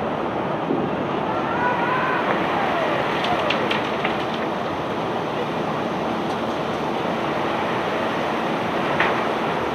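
Steady rushing noise of a self-unloading barge's discharge machinery running as it unloads bulk stone, with a few light clicks and a faint high squeak about two seconds in.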